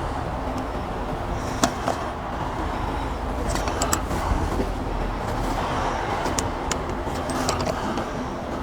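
A caulking gun clicking a few times at irregular intervals as liquid flashing is squeezed out onto the window opening, over a steady low rumble of background noise.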